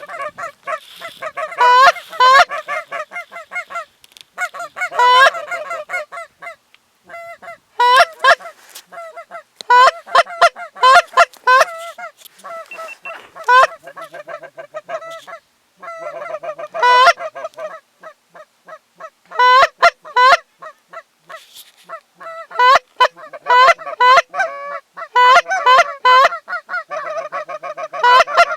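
Goose honking and clucking in quick runs of short, sharply rising and falling calls, with brief pauses between the runs.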